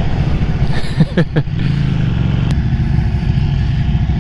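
Ducati Panigale 1199S V-twin engine running under way, with wind rush on the rider's camera; about a second in the revs drop sharply, then the engine settles back to a steady drone.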